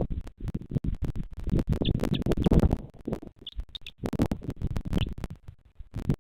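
Irregular rumbling and scratching on the nest camera's microphone, with a few short high bird chirps.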